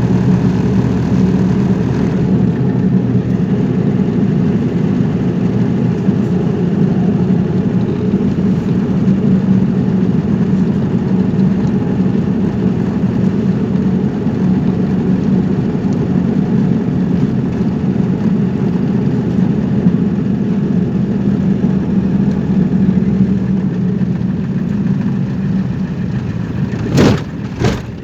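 Steady car engine and road noise while driving, with two sharp knocks less than a second apart near the end.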